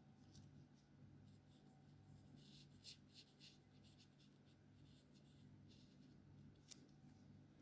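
Alcohol marker felt tips stroking across paper, a faint, scratchy hiss in short irregular strokes as an area is coloured in.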